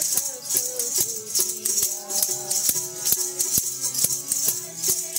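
Sikh kirtan music: held harmonium-like notes over regular hand-percussion strikes and a continuous high jingling rattle, with little or no voice between sung lines.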